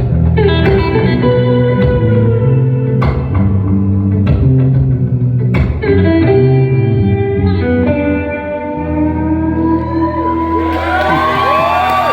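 Instrumental guitar duo playing live: strummed chords a few seconds apart, with notes left ringing, as the song winds down. Near the end the audience starts cheering and whistling.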